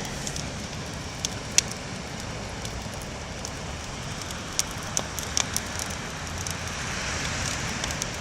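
Wood campfire crackling, with sharp pops scattered irregularly, several close together around the middle, over a steady rushing noise.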